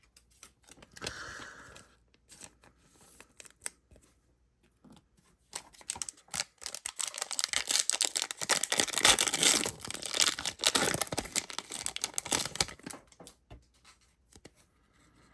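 A trading-card pack's wrapper being torn open and crinkled by hand, with a few light handling clicks first and then several seconds of dense tearing and crackling through the middle.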